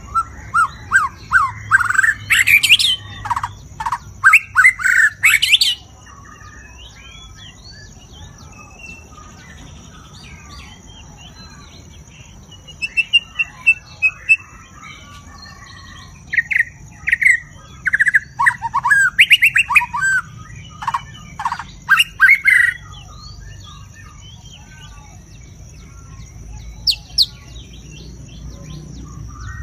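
White-rumped shama singing loud, varied phrases of whistles and rapid trills in three main bouts, with softer bird notes in between. A steady, thin high tone runs under it throughout.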